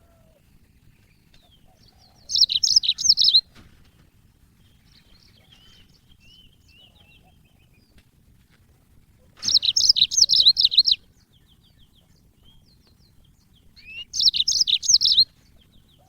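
Yellow-fronted canary (Mozambique canary) singing. Three loud bursts of rapid, high trilled notes, each about a second long and spaced several seconds apart, with softer chirps in between.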